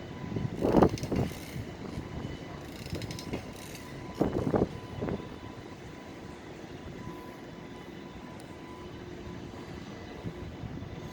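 Freight train's container wagons rolling past with a steady rumble. Their wheels clatter over the rail joints in two louder bursts, one near the start and one about four seconds in.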